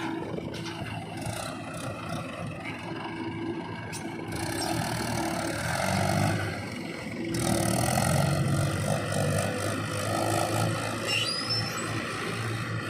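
JCB 3DX backhoe loader's diesel engine working while loading mud, its note swelling louder twice as it takes load. A brief high squeal comes near the end.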